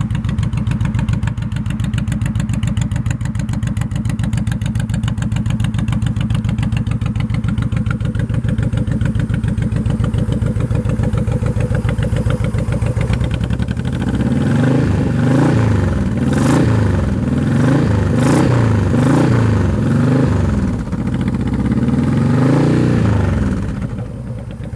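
A 2002 Honda VTX1800R's 1800 cc V-twin running through a Vance & Hines aftermarket exhaust. It idles with a steady, loping pulse. About halfway through, the throttle is blipped repeatedly, making a run of quick rises and falls in revs, and then it drops back to idle near the end.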